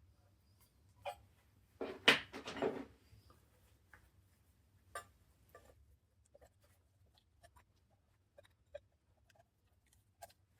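Metal knocking and clinking as a lever prises at a stuck part on a Morris Minor engine. There is a cluster of sharp knocks about two seconds in, another knock a few seconds later, then scattered light clicks.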